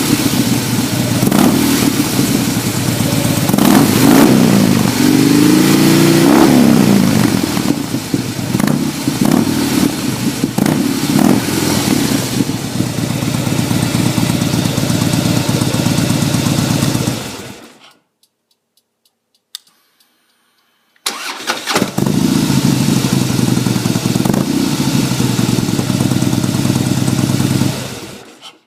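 Harley-Davidson Softail Deluxe V-twin engine running through a Freedom Performance racing exhaust with no baffles, very loud. It is revved several times in the first dozen seconds, one rev rising and falling over a couple of seconds, then idles; about 17 seconds in it cuts out, and about three seconds later it is running again.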